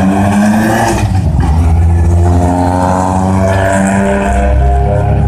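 Ford Escort rally cars' engines revving as they drive past. The pitch climbs in the first second, then a second engine note comes in about two seconds in and holds, dipping slightly.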